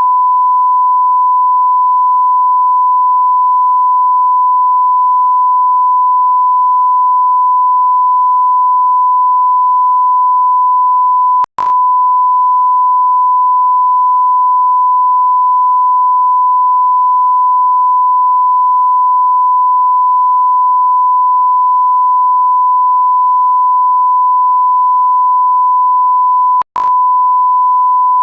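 Continuous electronic sine-wave beep at about 1 kHz, a steady pure tone like a censor bleep or test tone. It cuts out for an instant with a click twice, about eleven and a half seconds in and near the end.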